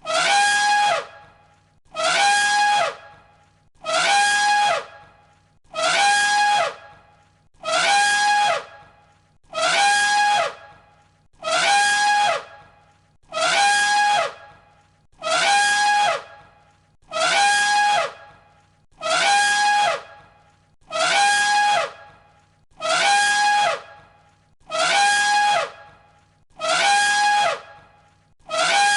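Elephant trumpet call, one recording looped over and over. The same call, about a second long, repeats roughly every two seconds: a high held note that bends down at its end.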